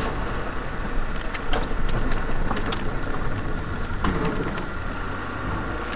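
A car engine running steadily, with a few light clicks and knocks.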